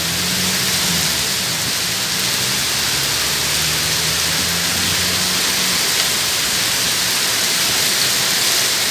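Heavy rain pouring down, a loud, steady hiss. A faint low hum runs underneath and fades out about six seconds in.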